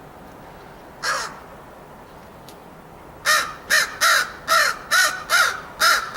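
Crow cawing: a single caw about a second in, then a quick run of seven caws, two or three a second.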